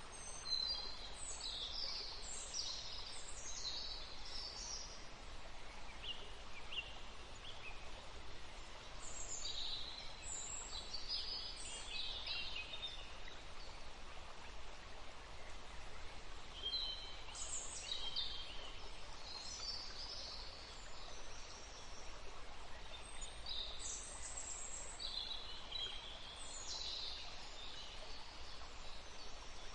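Songbirds singing in short bursts of high chirps and trills, four spells of a few seconds each, over the steady rush of a forest stream.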